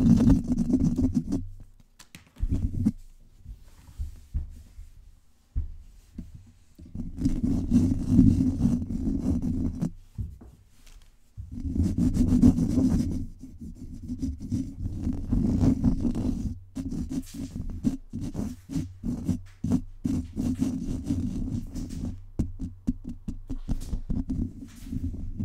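Fingers scratching fast and hard directly on a microphone, a dense rubbing and scraping with a heavy low rumble. It comes in runs of a second or two with short pauses, and in quicker strokes several times a second in the second half.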